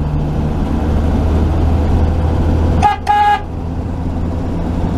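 A 1949 Chevy truck's engine running steadily while driving, with two quick toots of the horn about three seconds in, a very short one followed by a slightly longer one.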